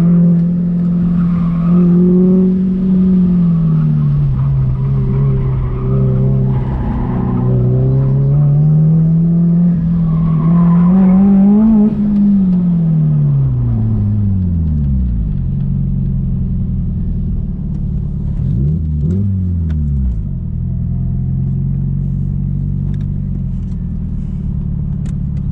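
A car engine heard from inside the cabin, driven hard through a cone course. Its pitch rises and falls with the throttle, then drops away to a steady idle about halfway through. A few seconds later there is one quick rev and fall before it settles to idle again.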